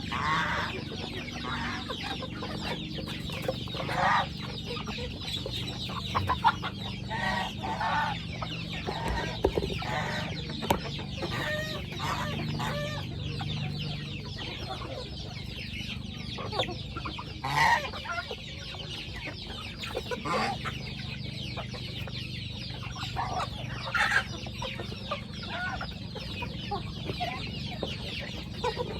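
A flock of chickens clucking continuously, many overlapping short calls, with a few louder squawks standing out now and then.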